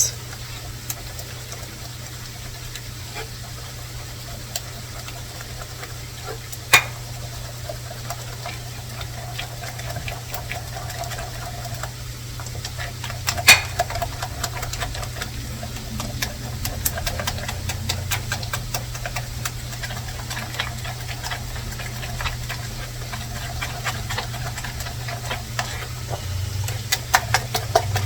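Pancake batter being mixed by hand in a bowl: a utensil ticking and clicking against the bowl, with two sharper knocks and quicker clicking near the end, over a steady low hum.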